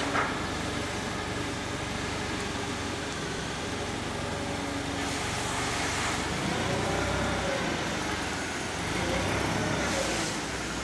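Clark pneumatic-tire forklift's propane engine running steadily, with a tone that rises and falls a few times.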